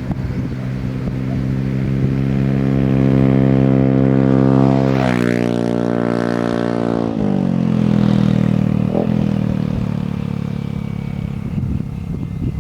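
Yamaha Aerox 155 scooter's single-cylinder engine through an Akrapovic aftermarket exhaust, running steadily, then revving up sharply about five seconds in and dropping back about two seconds later.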